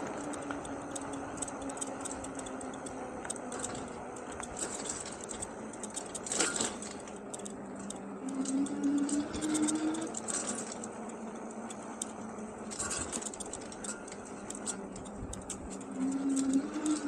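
Engwe Engine Pro e-bike's 750 W hub motor whirring while riding, its whine rising in pitch twice as the bike speeds up, once about halfway through and again near the end. The frame rattles, with a couple of sharper knocks over bumps.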